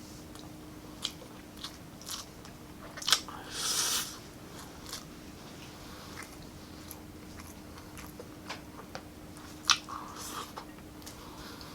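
Close-miked eating: a person chewing and biting into grilled chicken and rice, with scattered small mouth clicks. A louder bite with a short crunch comes about three seconds in, and another sharp click comes near the end.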